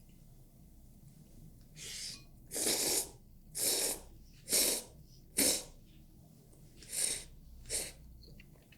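A person slurping instant noodles: about seven short slurps, a little under a second apart.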